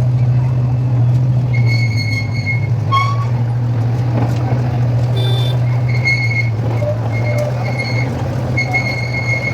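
Park toy train running: a steady low drone throughout, with high beeping tones that come and go several times over it.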